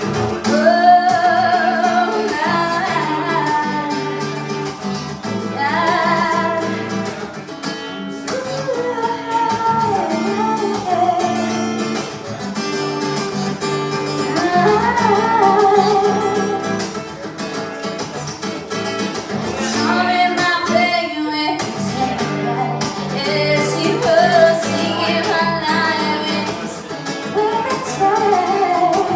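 A singer with acoustic guitar accompaniment: a sung melody over strummed and plucked chords.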